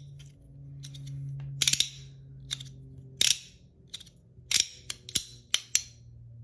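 Battle Master 1.1 PEI-and-aluminium fidget toy being worked by hand: a series of about nine sharp clicks, some in quick pairs, at irregular intervals.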